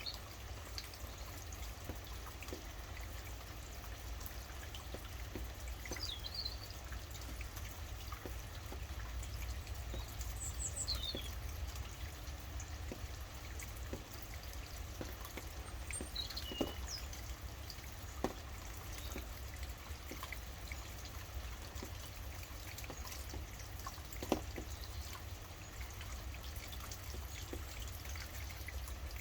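Steady rain with water trickling and dripping, a few single drops landing louder than the rest. Birds give a handful of brief high chirps now and then.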